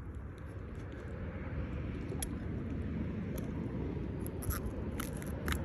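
Wind buffeting the microphone in a steady low rumble that grows a little stronger, with a few faint clicks and taps from about two seconds in.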